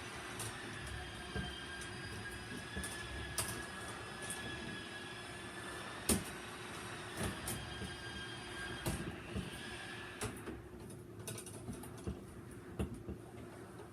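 Electrical tape unwinding off the roll as it is wrapped around a wire: a steady high whine with overtones that stops about nine and a half seconds in, with scattered clicks and handling knocks.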